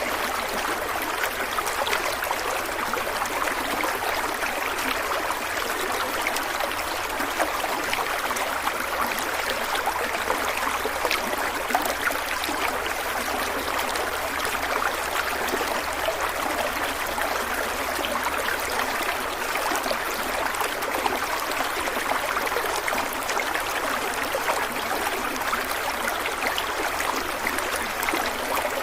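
Stream water running steadily over rocks, a continuous rushing wash with fine splashing and trickling.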